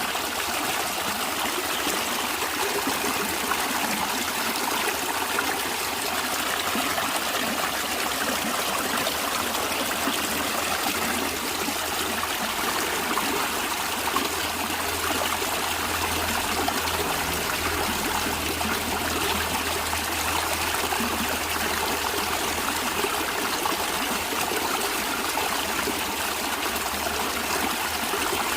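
Stream water flowing and trickling steadily over stones.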